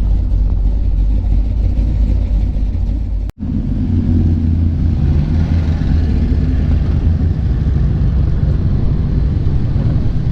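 Deep, steady engine rumble of a car or truck running close by. The sound cuts out for an instant about three seconds in.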